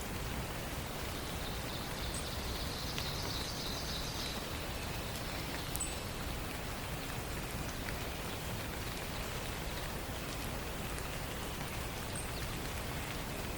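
Forest ambience: a steady even hiss with scattered faint ticks. A songbird trills for about two seconds a couple of seconds in, and there are a few brief high chirps.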